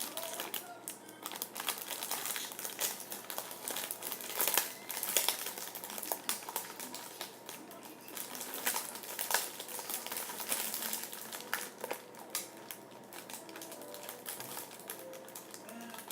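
Slime being squeezed and stretched by hand, giving dense, irregular crackling and clicking as trapped air pops.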